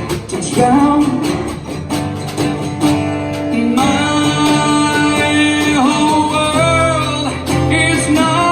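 Unplugged band music: strummed acoustic guitar with a voice singing long, held notes.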